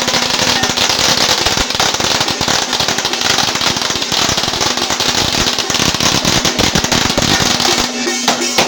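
A long string of firecrackers going off, a dense, rapid crackle of bangs. The bangs stop near the end, and traditional band music with a held reed note comes back in.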